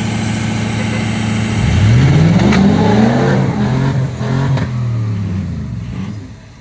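A vehicle engine idling steadily, then revving up about two seconds in and held at high revs for a few seconds while pulling to free a stuck vehicle, before dropping off near the end. Two sharp clicks come during the revving.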